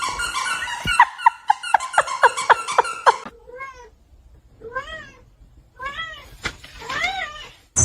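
Cat meowing: a fast string of short high calls, then four short meows about a second apart, each rising and falling in pitch.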